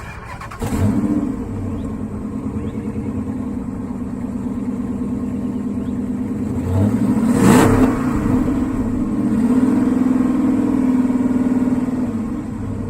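Chrysler 300's 5.7-litre HEMI V8 running through a muffler-deleted exhaust. It comes in loud about a second in, settles to a steady idle, and gives one short, louder rev about seven and a half seconds in.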